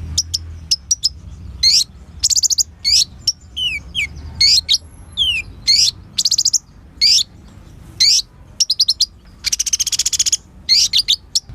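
Kolibri ninja sunbird singing: quick groups of sharp, high-pitched chirping notes, a few downward-sliding notes, and a dense rapid trill near the end. A low steady hum runs underneath.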